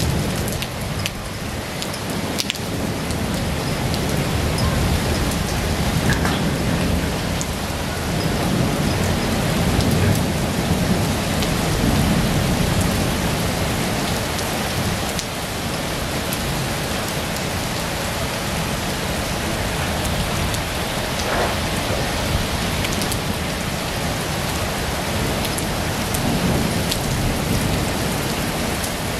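Heavy rain pouring steadily, with a few sharp drop hits close by and a low rumble underneath that swells and fades.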